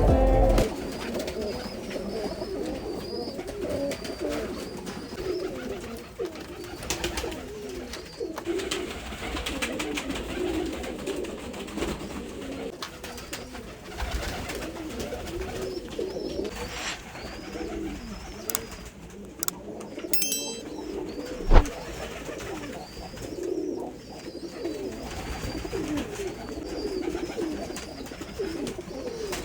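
Pigeons cooing steadily, a continuous low warbling, with one sharp knock about two-thirds of the way through.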